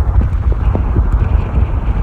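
Steady low rumble of a vehicle driving, with wind buffeting the microphone and a few faint ticks.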